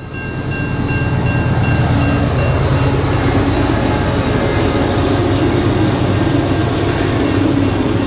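A train running, with a loud, steady, heavy rumble.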